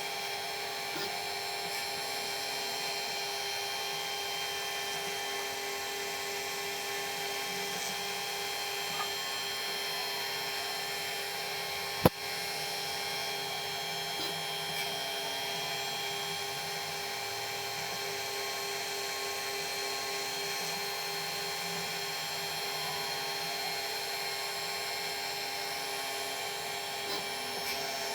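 Small milling machine running steadily with a steady whine from its spindle, as a radius cutter works on a small metal part. One sharp click about twelve seconds in.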